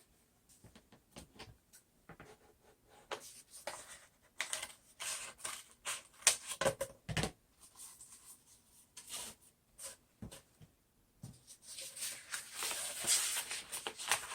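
Plastic craft sheets (vinyl and contact paper) being handled: irregular rustling and crinkling with light taps and clicks, turning into a longer stretch of rustling near the end.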